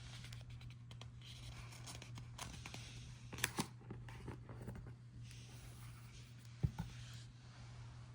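Faint rustling and a few soft clicks over a steady low electrical hum, with a sharper click about three and a half seconds in and another near seven seconds.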